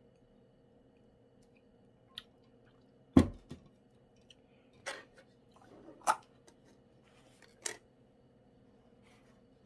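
Salt bread being handled and bitten: a dull thump a little after three seconds in, then a few short, crisp crackles spaced a second or so apart, over a faint steady hum.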